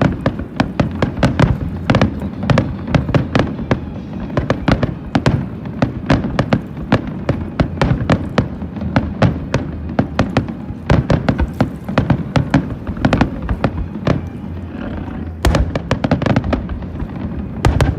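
Fireworks display: a rapid barrage of bangs and crackles, several a second, easing off briefly about fifteen seconds in before the bursts pick up again.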